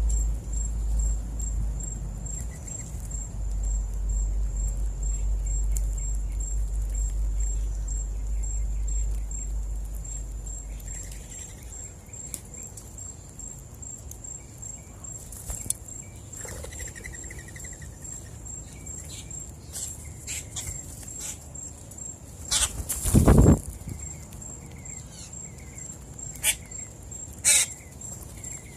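Outdoor morning ambience with birds at seed: occasional short bird chirps and scattered sharp clicks and rustles, over a steady high pulsing trill. A low rumble fades out about a third of the way in, and a loud thump or flutter comes about three-quarters of the way through.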